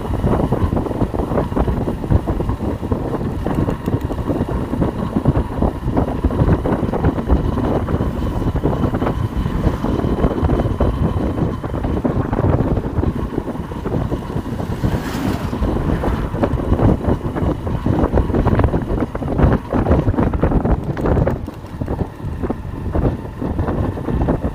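Wind buffeting the microphone of a moving Hero Hunk motorcycle, with the bike's engine running underneath.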